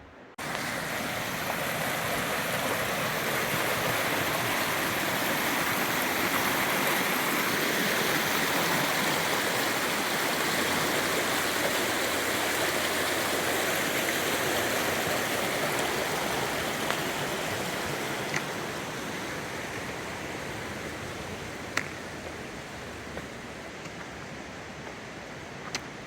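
Mountain river rushing: a steady wash of fast-flowing water over rocks, growing louder through the middle and easing toward the end, with a few faint clicks.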